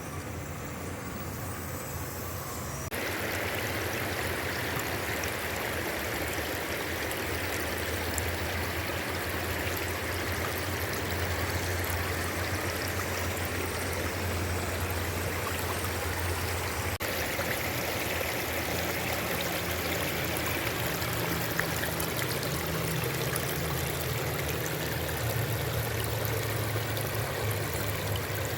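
Creek water rushing over a small waterfall, a steady rush that gets louder about three seconds in.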